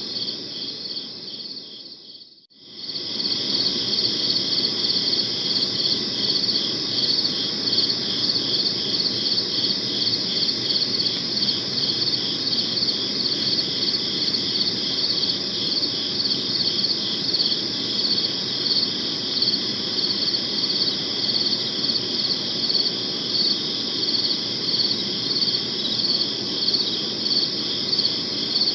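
Crickets chirping in a steady chorus of high, evenly pulsing trills. The sound fades out briefly about two seconds in and comes straight back.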